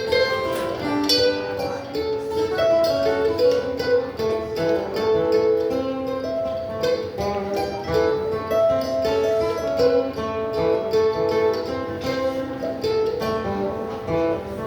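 Live acoustic string-band music, guitar and other plucked strings playing an old-time tune, with a quick run of many short notes.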